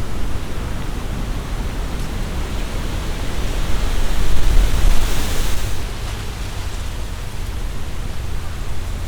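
Strong wind gusting through tree leaves, a dense rustling hiss over a low rumble of wind; a gust swells about four seconds in, peaks, and eases off about six seconds in.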